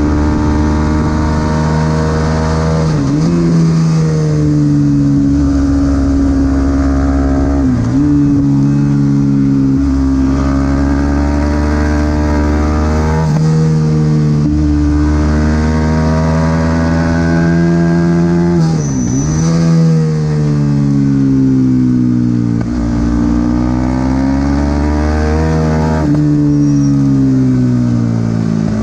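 Supersport 300 race motorcycle engine at racing speed, revs climbing and falling in long sweeps as gears change, with several sharp drops and quick recoveries under braking and downshifts.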